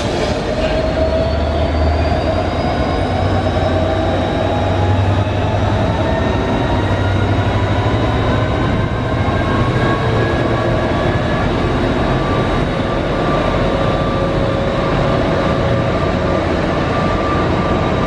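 Diesel-hauled passenger train, with a class 69 and a class 57 locomotive at either end, running past loudly. Several tones rise steadily in pitch, as they do when the train gathers speed.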